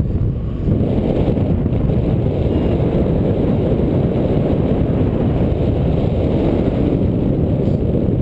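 Strong wind rushing over the microphone in flight: a steady, loud low rumble with no distinct tones.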